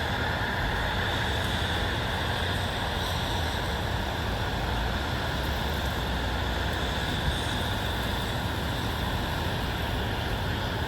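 Steady outdoor ambient noise, an even hiss over a low rumble that holds unchanged throughout.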